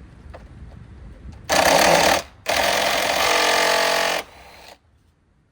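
Impact wrench run in two bursts, a short one and then a longer one of nearly two seconds, with a hammering rattle, driving fasteners off during disassembly.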